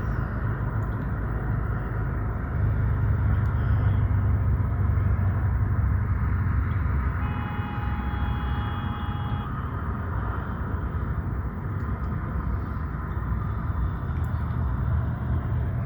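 An engine running steadily with a low rumble, and a short steady tone about halfway through.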